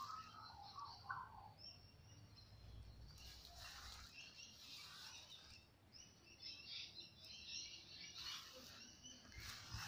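Faint birdsong in the garden: clusters of short, high chirps come and go over a quiet background.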